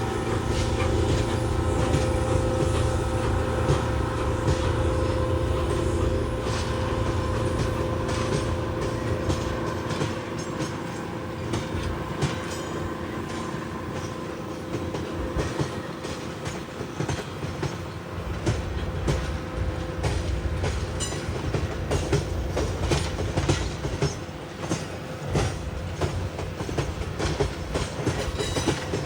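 Freight train rolling past with a steady drone in the first part and wheels clicking and clattering over the rails. The clicks grow more frequent in the second half.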